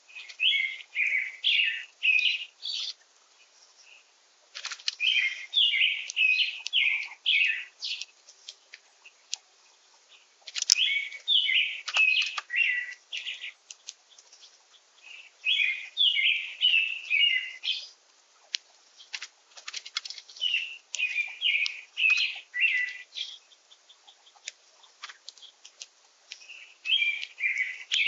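A songbird singing: a warbled phrase of many quick, high notes, about three seconds long, repeated six times with short gaps between. Faint short clicks fall between the phrases.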